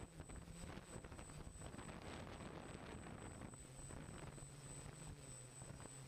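Faint steady hum and hiss, with a thin high whine held throughout.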